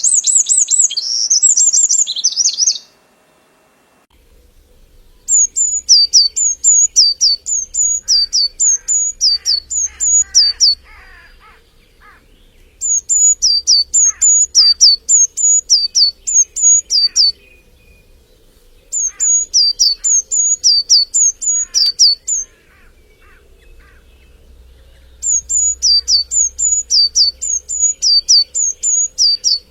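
Birds singing. A dense, high warbling song stops abruptly about three seconds in. Then a songbird repeats quick, high notes that each slide downward, in four bouts of about five seconds with short pauses between them.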